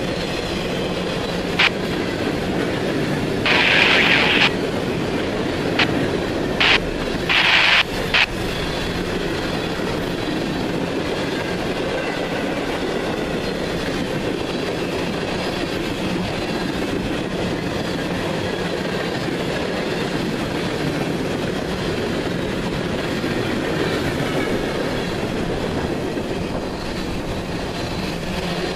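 Freight cars of a CSX manifest train rolling past, a steady rumble and clatter of wheels on the rails. Several short, loud high-pitched wheel squeals come in the first eight seconds, then the rolling continues steadily.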